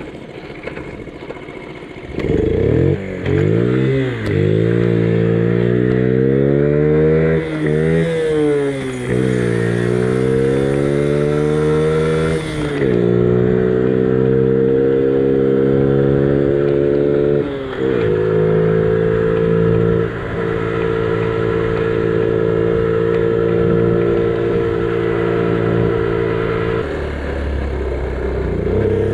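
Honda Gorilla minibike's single-cylinder four-stroke engine pulling away and accelerating, its pitch climbing and dropping back at each gear shift, then holding a steady cruising note. Near the end the revs drop, then climb again.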